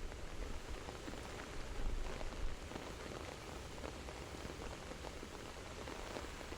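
Steady rain, with faint scattered drops tapping.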